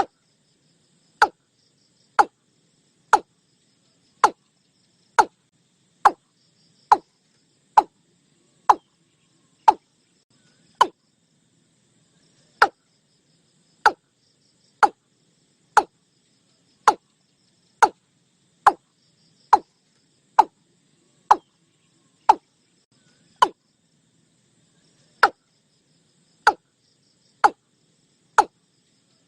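Watercock calling: a long run of short, sharp downward-slurred notes, about one a second, broken by two brief pauses.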